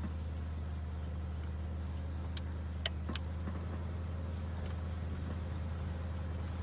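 Vehicle engine idling with a steady low hum, with a few sharp clicks about two and a half to three seconds in.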